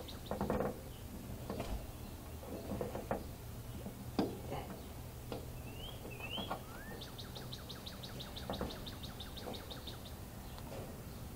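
Birds singing: a rapid high trill of about eight notes a second at the start and again later, with a few short rising whistles in between. Scattered short clicks and knocks sound through it.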